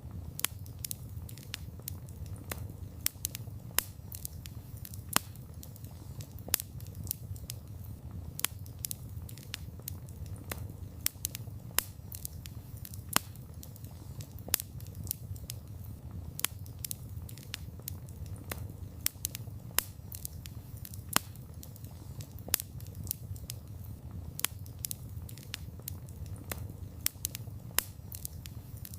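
Wood campfire burning, with irregular sharp crackles and pops, several a second and some much louder, over a steady low rumble of the flames.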